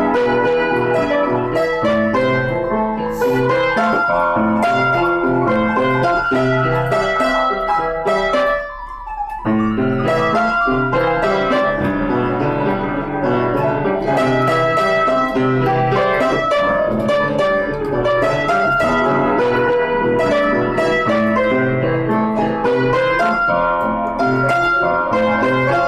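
Instrumental piano music playing continuously, with a brief lull about nine seconds in before it picks up again.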